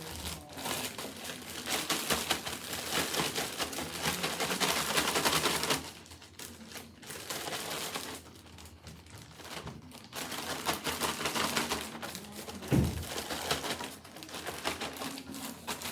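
Cereal pieces rattling inside a crinkling plastic bag as the bag is shaken to coat the cereal in melted chocolate, peanut butter and powdered sugar. The shaking comes in bouts, loudest for the first six seconds or so, with a single thump about thirteen seconds in.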